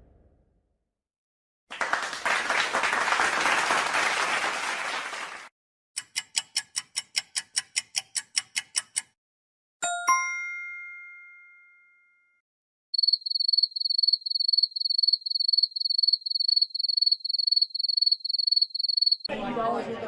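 A run of separate sound effects: about four seconds of even hissing noise, then about fifteen quick clicks at roughly five a second, a single bell ding that rings out, and a high pulsing chirp like crickets at about two or three pulses a second. Crowd chatter starts near the end.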